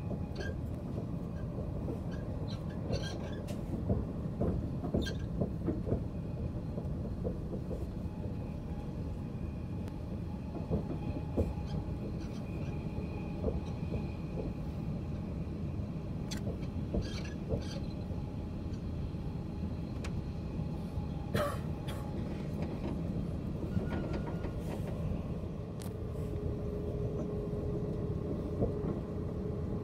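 Passenger train running, heard from inside the carriage: a steady low rumble with scattered ticks and knocks. A steady hum comes in about four seconds before the end.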